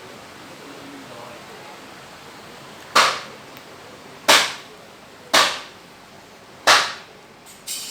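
Four sharp knocks a little over a second apart, each dying away quickly, then a fainter fifth knock near the end.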